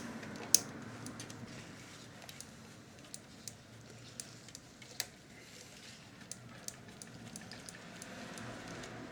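Scattered light clicks and taps of hands working on a video recorder's tape mechanism, with one sharper click about half a second in.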